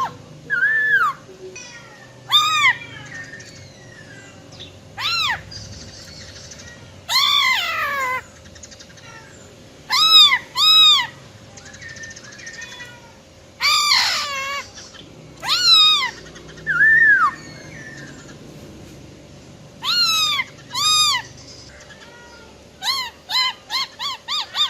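Female black-throated laughingthrush calling: loud arched notes, often in pairs, a few harsher notes that slide downward, and a quick run of short notes near the end.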